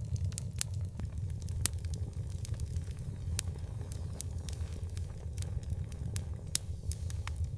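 Wood fire burning with a steady low rumble and irregular sharp crackles and pops, about one or two a second.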